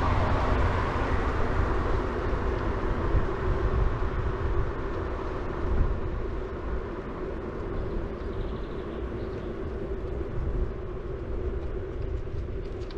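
Wind rumbling on an action camera's microphone as a city bike rolls along, with tyre noise from the road and a faint steady hum. A louder passing noise fades over the first few seconds.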